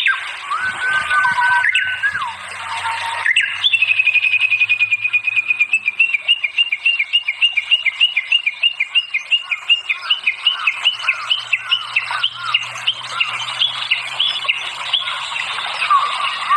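Songbird singing: a few clear whistled notes at first, then from about three seconds in a long run of rapid, evenly repeated chirps, several a second.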